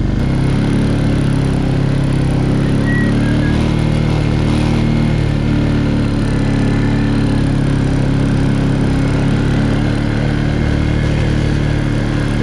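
2014 TGB Blade quad bike's engine running under way at a fairly steady pitch as it is ridden across a field.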